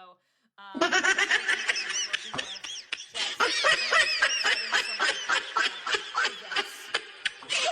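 A person laughing hard in quick, repeated bursts of snickering, starting about half a second in after a brief gap.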